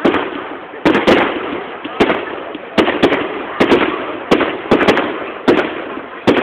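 Fireworks exploding in quick succession, about a dozen sharp bangs less than a second apart, each trailing off in a rumble.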